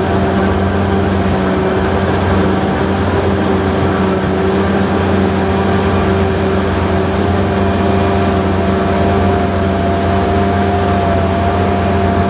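Heavy diesel farm machinery running steadily under load, a constant low engine drone with a steady hum and a higher whine held over it.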